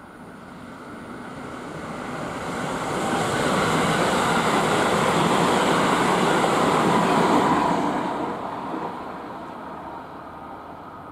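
JR West 223 series electric multiple unit passing close by, its wheels running on the rails. The sound builds over the first few seconds, stays loud for about four seconds as the cars go past, then fades away.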